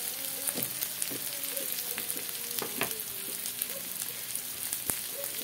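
Sliced lemongrass, ginger, garlic and shallots sizzling in a little hot oil in a wok: a steady hiss with a few sharp pops. The aromatics are being fried until the shallots turn golden.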